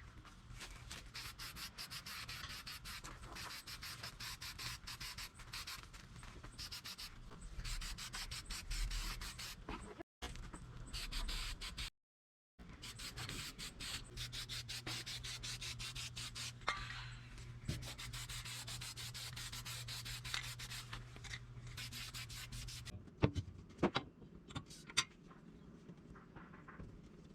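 Wood being sanded: a fast, repeated scratchy rubbing that cuts out briefly twice. Near the end it stops and is followed by a few sharp knocks.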